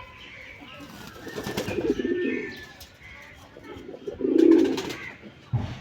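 Domestic pigeons cooing, with two main bouts of low coos: one about one and a half seconds in and a louder one near the end.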